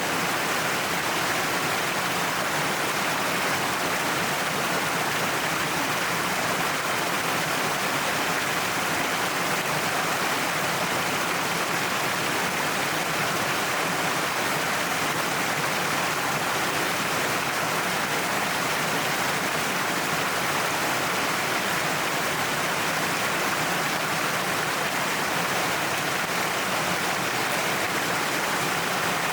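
Cliffside waterfall: a steady, even rush of falling water that holds level throughout.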